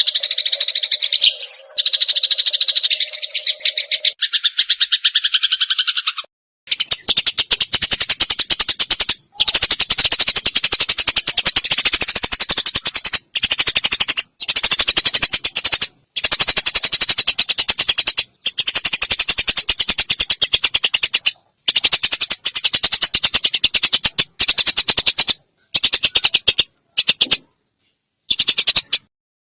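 Sparrows fighting: harsh, very rapid chattering in long runs broken by short pauses, after a steadier buzzing chatter in the first few seconds.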